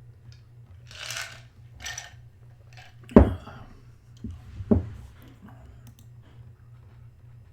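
Two short rustles, then two sharp knocks about a second and a half apart, the first the loudest: small objects being handled and set down.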